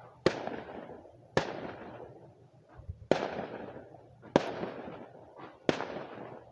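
Fireworks display: five aerial shells bursting with sharp bangs about a second or so apart, each bang trailing off in a fading echo.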